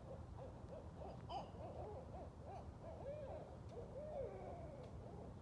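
Barred owls caterwauling: a continuous run of wavering hoots that swoop rapidly up and down in pitch, overlapping at times.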